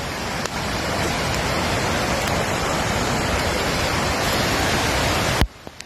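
Steady rushing of fast-flowing floodwater, cutting off abruptly about five and a half seconds in.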